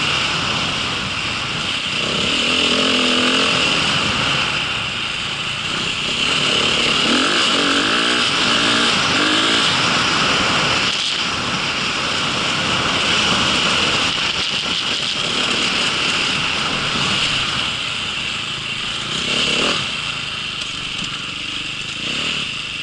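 A motor vehicle's engine running continuously, its pitch rising and falling several times as it revs and slows, over a steady hiss.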